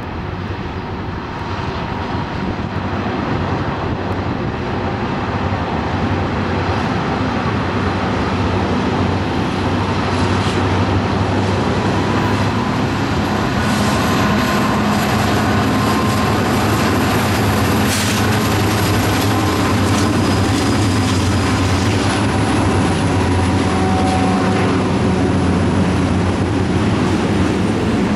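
Norfolk Southern freight train passing: the lead diesel locomotives' engines drone and grow louder as they approach, then the freight cars roll by with a steady rumble of wheels on rail. A single sharp clank comes about two-thirds of the way through.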